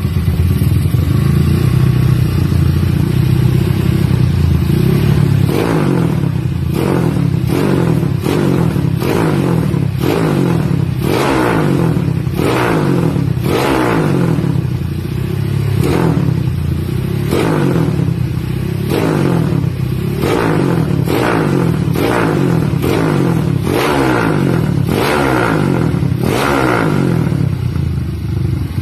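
Motorcycle engine through an aftermarket Pekajaman muffler, idling for a few seconds, then revved in quick throttle blips about once a second, each rising and dropping back.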